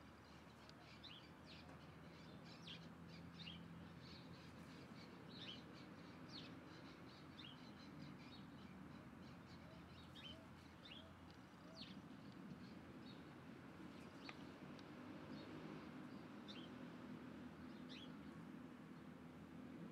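Faint, short, high bird chirps, each a quick falling note, scattered every second or so, over a low, steady background hum.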